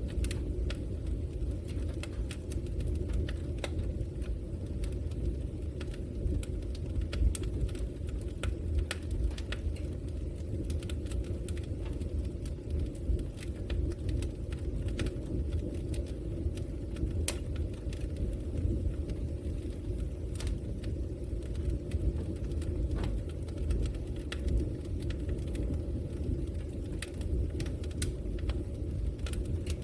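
Log fire burning, with a steady low rumble of the flames and irregular sharp crackles and pops from the wood.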